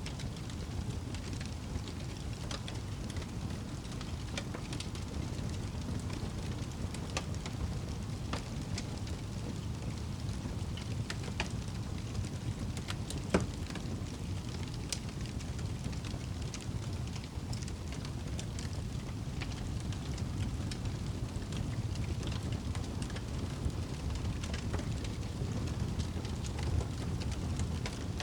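Campfire crackling, with scattered sharp pops, the loudest about 13 seconds in, over a steady low rumble.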